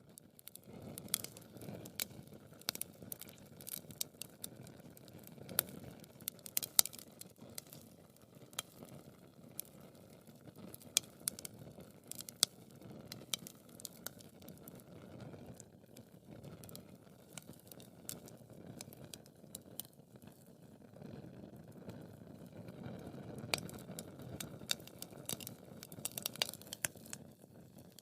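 Wood fire burning in a fireplace: a steady low flame rumble with dense, irregular crackles and sharp pops of burning logs. Crackling grows busier and a little louder near the end.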